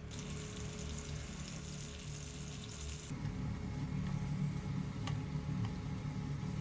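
Food sizzling in a frying pan for about three seconds, cut off abruptly, then softer kitchen sounds with a single click, over quiet background music.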